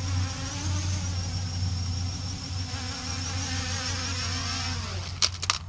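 CG035 quadcopter's motors and propellers buzzing steadily in flight, the pitch wavering slightly. About five seconds in, the pitch drops and a few sharp clicks follow.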